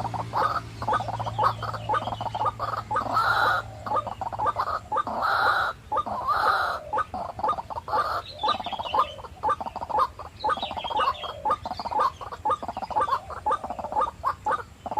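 White-breasted waterhens calling: a rapid, unbroken run of short clucking notes, with a few longer, louder calls between about three and seven seconds in.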